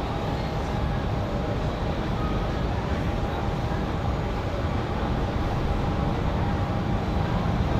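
Jet airliner engines running: a steady rumble with a faint, steady whine above it.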